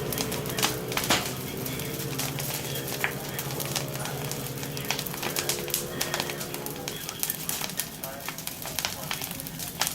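Bonfire of dry fallen pine needles and twigs crackling, with irregular sharp pops and snaps.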